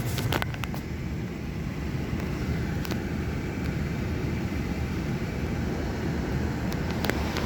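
Istobal M'nex 22 automatic car wash machine working over the car, heard from inside the cabin, on a pass that is probably clear coat. There is a steady low rumble and hiss, with a few short ticks against the body.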